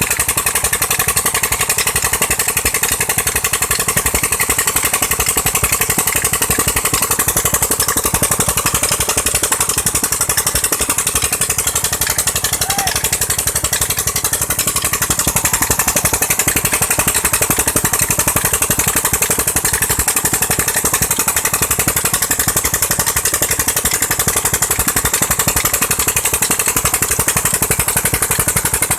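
Petter stationary engine converted to run on LPG, running steadily at an even speed while driving a tube-well pump, with a fast, regular firing beat.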